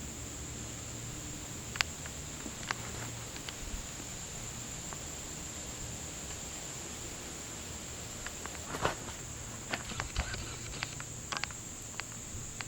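Steady high-pitched buzzing insect chorus, with a few light clicks and crackles scattered through, most of them in the second half.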